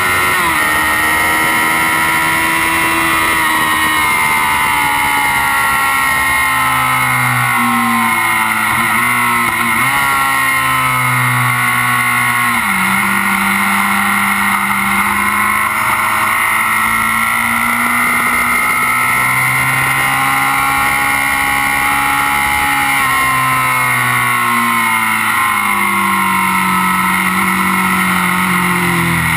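Kawasaki Z750's inline-four engine running hard on track, heard close up from beside the engine cases. Its revs climb and fall several times through gearchanges and corners, over a steady rushing noise.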